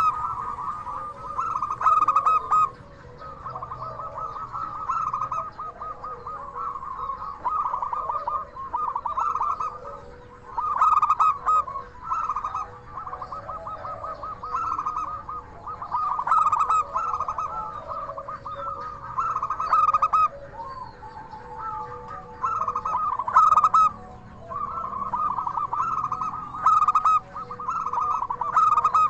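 Zebra dove (perkutut) cooing: trilled coo phrases repeated one after another, every second or two.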